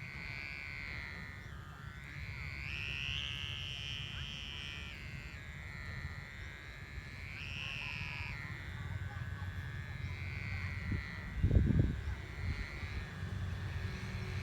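Humming whine of a wau kite's bow hummer singing in the wind, a wavering tone that swells and dips in pitch every few seconds. Steady wind rumble on the microphone underneath, with a short low thump a little past the eleven-second mark.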